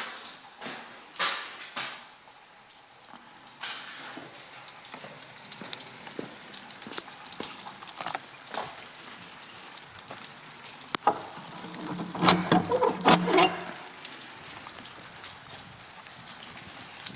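Steady hiss of rain falling, with a few sharp knocks, loudest in a cluster about twelve seconds in.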